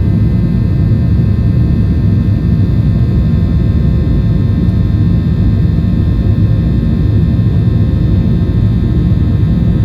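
Boeing 737-800's CFM56-7B turbofan engines during take-off, heard inside the passenger cabin: a loud, steady low rumble with a layer of faint steady whining tones above it.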